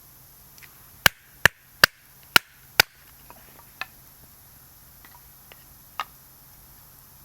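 Five sharp chopping strikes on wood in quick succession, about two a second, followed by a few lighter knocks.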